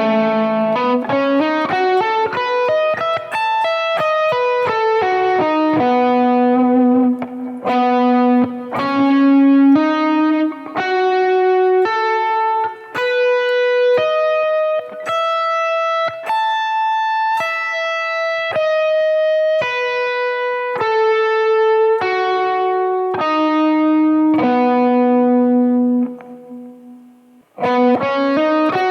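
Electric guitar through an Axe-Fx II amp modeller playing a slow single-note arpeggio over a B7 chord. Each note rings about half a second to a second, and there is a brief gap near the end.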